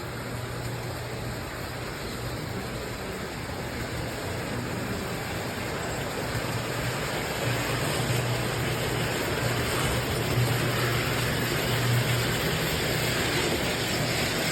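Model train running on its track: a steady motor hum under the rumble of wheels on rail, growing louder as it comes closer, loudest in the last few seconds.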